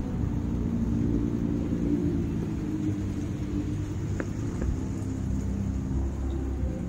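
Motor vehicle engine running with a steady low rumble, as from street traffic, with a single faint click about four seconds in.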